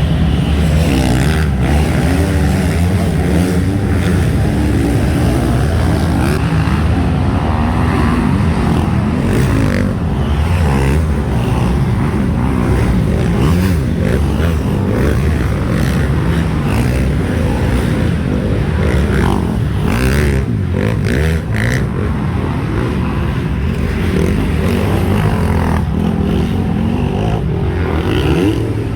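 Several motocross bikes racing on the track together, their engines overlapping and revving up and down as they accelerate and ease off.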